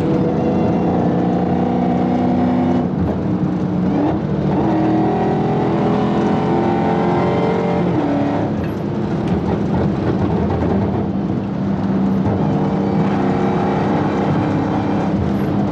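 Dodge Hellcat's supercharged Hemi V8 driving hard at speed, its pitch climbing under throttle for a few seconds and then dropping sharply about halfway through, as at a gear change, before settling into a steady run.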